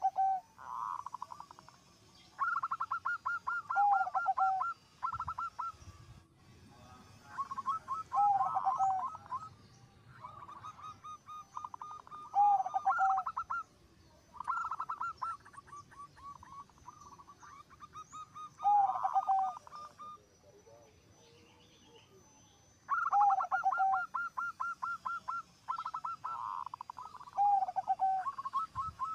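Zebra dove (perkutut) cooing: repeated phrases of quick staccato coos that end on lower, longer notes, about one phrase every two to four seconds with short pauses between.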